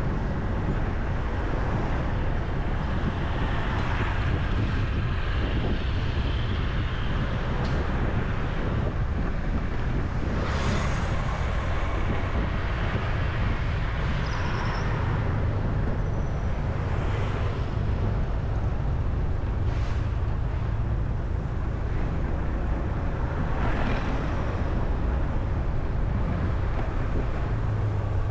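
Road traffic: a steady low rumble, with vehicles passing about every six or seven seconds.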